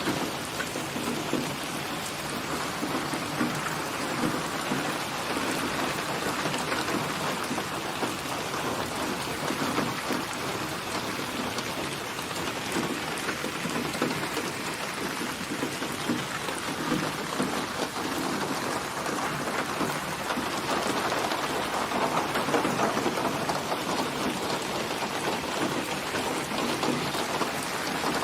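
Steady rain falling on a surface, a dense even patter that swells slightly, with a somewhat heavier stretch about three-quarters of the way through.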